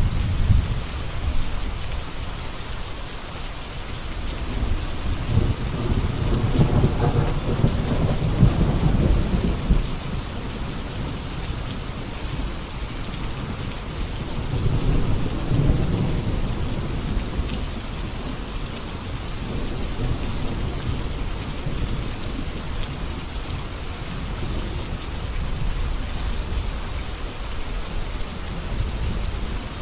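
Steady rain falling, with low rolling thunder that swells in long rumbles, the strongest about a fifth of the way in and another about halfway through, then fainter rumbles.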